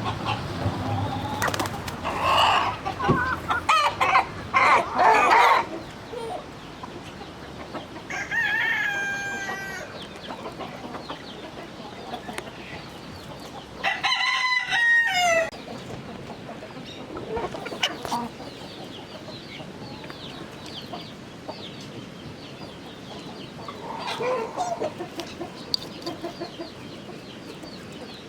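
Chickens clucking and squawking in loud bunches, with a rooster crowing twice, the louder crow about halfway through and falling in pitch at its end.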